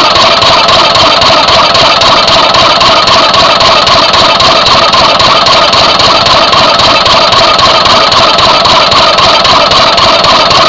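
Lister CS twin-cylinder stationary diesel engine running steadily with an even, loud beat. The owner finds the second cylinder still firing slightly weaker than the first, and suspects its injector's spray pattern.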